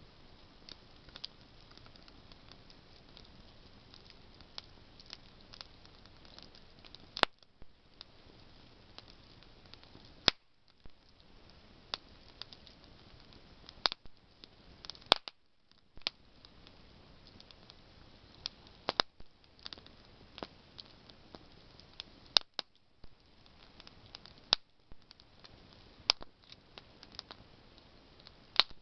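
Campfire of burning branches crackling, with irregular sharp pops and snaps over a low steady hiss; the loudest pops come every few seconds.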